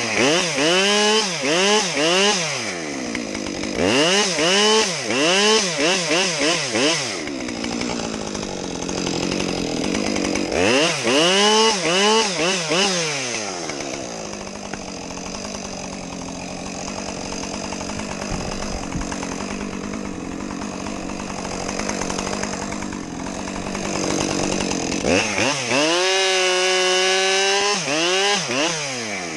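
Two-stroke chainsaw running, its engine speed surging up and down again and again in bursts of a few seconds. Between the bursts it runs lower and steadier for a stretch in the middle.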